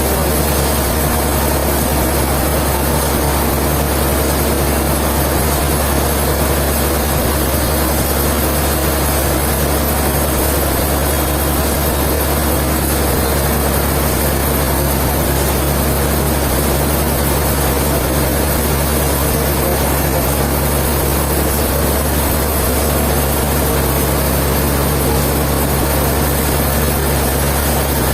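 Sawmill machinery running at a constant speed: a loud, steady mechanical drone with a deep hum that does not change.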